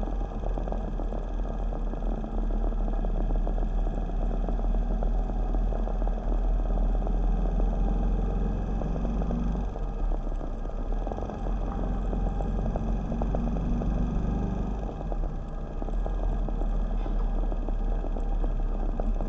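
Motorcycle engine running under way, with road and wind rumble; the engine note shifts about ten seconds in and again near fifteen seconds.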